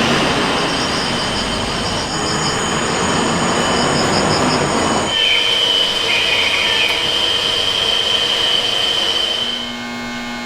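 Loud machine noise in a metal fabrication shop: harsh noise for about five seconds, then a steady high-pitched squeal that stops shortly before the end.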